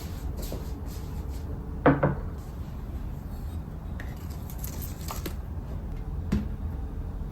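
Household handling sounds over a steady low hum: a solid knock that rings briefly about two seconds in, a couple of light clicks, and a smaller knock near the end, like objects or a cupboard door being handled.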